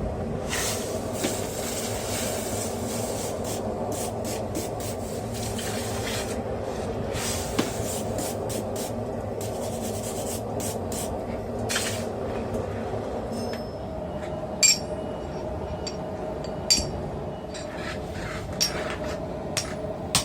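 Steady rushing roar of a propane forge, with about four sharp, ringing metal clinks in the last few seconds as steel and tools are handled.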